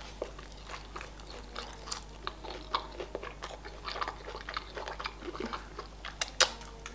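Close-up eating of crispy breaded KFC spicy chicken wings: biting the meat off the bone and chewing, with many small crunches and wet mouth clicks scattered throughout.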